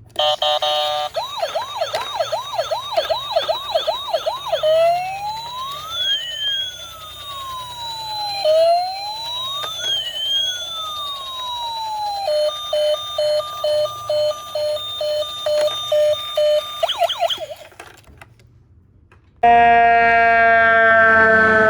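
Electronic siren from a toy emergency vehicle cycling through its patterns: a fast yelp of quick repeated sweeps, then a slow wail rising and falling, then evenly pulsed beeps about twice a second. It stops about 18 seconds in, and a different steady, slowly falling tone starts near the end.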